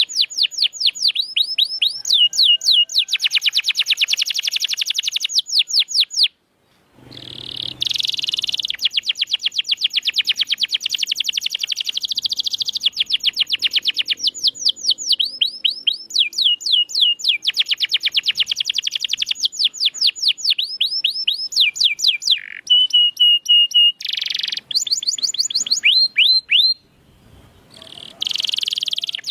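Domestic canary singing on and on in fast trills of repeated down-slurred notes, switching to a new phrase every second or two. There is a brief break about six seconds in and another near the end.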